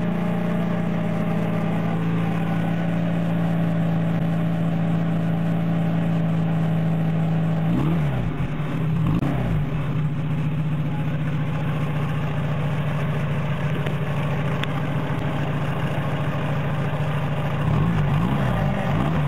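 Car engine running steadily. About eight seconds in, and again near the end, its pitch drops and climbs back in quick swoops.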